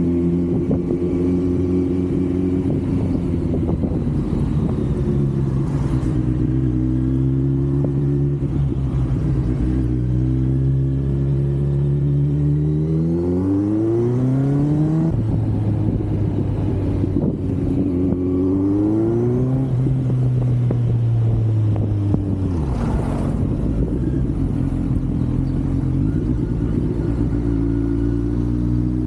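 Kawasaki Z900's inline-four engine and exhaust under way. The note runs steady, then climbs twice under acceleration, each climb cut by a sudden drop at a gear change, then eases off and settles back to a steady cruise.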